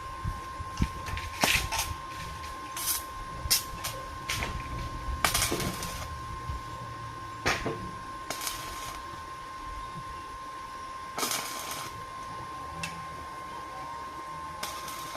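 Arc welding in short spurts: about nine brief bursts of crackling arc and sharp metal clicks at irregular intervals, the longest around five and eleven seconds in, over a steady high whine.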